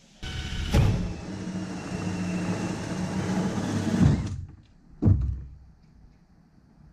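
A small motor-driven tool runs with a steady hum for about four seconds, starting and stopping abruptly, followed a second later by a single knock.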